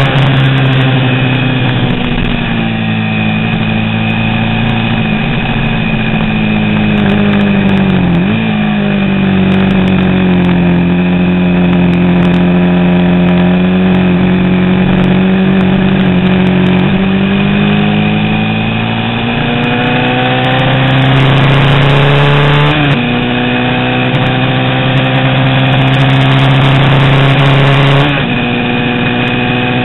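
Racing motorcycle engine in a vintage 350 cc class race, running hard the whole time. Its pitch climbs and sags slowly with the throttle, and steps suddenly three times, about 8, 23 and 28 seconds in.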